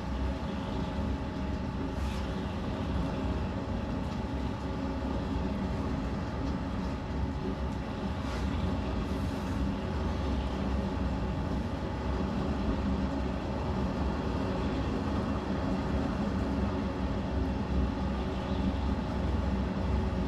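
Potter's wheel spinning with a steady hum and low rumble.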